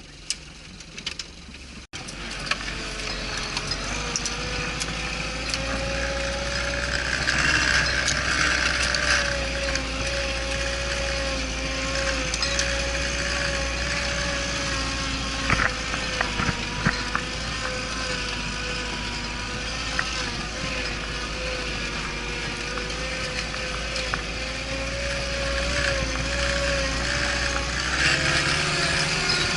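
Off-road vehicle driving with its front hubs locked for four-wheel drive. The engine runs under load with a steady, slightly wavering gear whine from the drivetrain, and there are a few knocks and rattles from rough ground.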